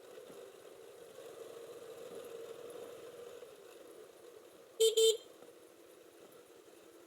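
Two short toots of a vehicle horn, one right after the other, over a quiet steady background hum.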